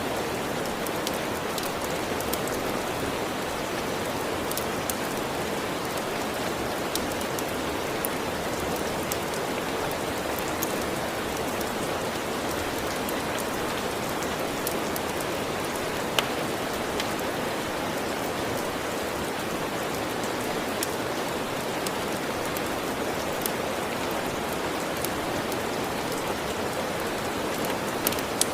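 Steady, even rain, with scattered sharp pops and clicks from a crackling log fire, one louder pop about halfway through.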